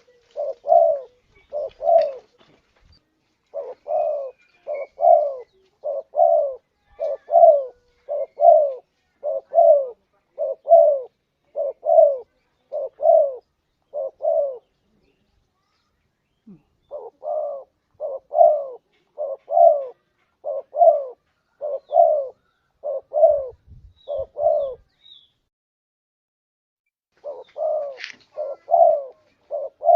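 Spotted dove (tekukur) cooing in long, even series of coos, about two a second. The coos break off briefly twice, near the middle and again a few seconds before the end. This is a lure call used to draw in wild tekukur.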